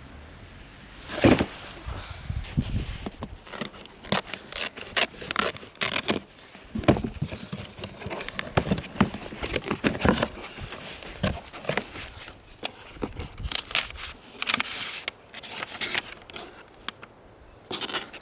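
Irregular crackling and scraping handling noises, a dense run of sharp clicks and short scrapes with a few louder ones, about a second in and near the end.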